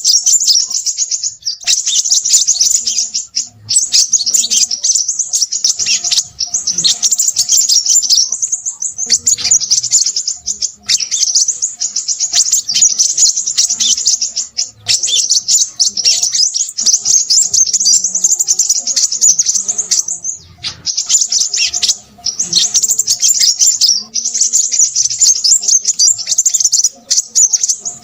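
Crimson sunbird singing a rapid, high-pitched stream of chirps and trills, in long phrases broken by brief pauses.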